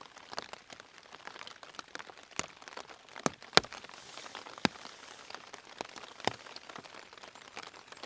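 Rain pattering on a tent's flysheet, heard from inside the tent: a steady scatter of small irregular drop ticks, with a few louder single ticks standing out in the middle.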